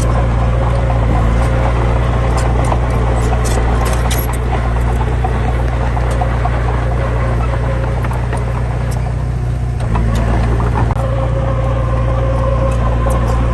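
Heavy diesel engine running steadily under load, with a slight change in its note about ten seconds in and faint high clicks and squeaks over it.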